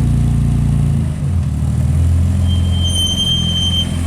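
Car engine running with a low rumble that dips briefly about a second in. Past the middle a steady high whistling tone sounds over it for about a second and a half.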